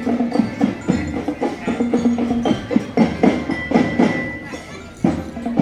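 A marching drum band playing: quick rhythmic drum strikes under a sustained pitched melody.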